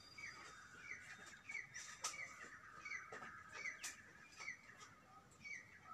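Faint chirps of a small bird, a short call repeated evenly about every two-thirds of a second, over a steady thin high hum with a few sharp clicks.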